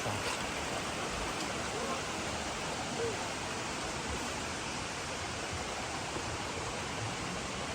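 Steady rush of flowing water, an even hiss without pauses.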